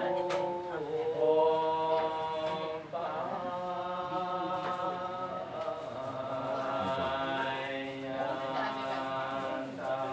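Several voices chanting together in long, drawn-out notes, a Buddhist chant.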